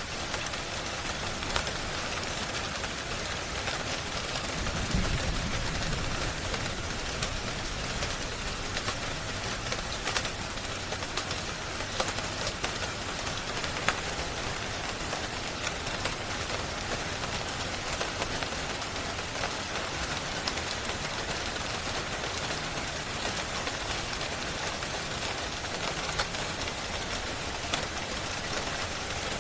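Steady rain hiss mixed with a fireplace crackling, many small sharp pops scattered through it. A brief low rumble comes about five seconds in.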